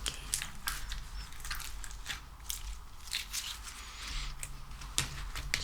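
Quick, irregular sticky clicks and crackles from a soft craft material being squeezed and pulled close to the microphone.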